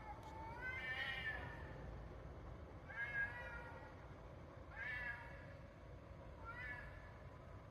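An animal calling four times, a second or two apart: drawn-out, wavering, high-pitched cries, the first the longest, over a steady low hum.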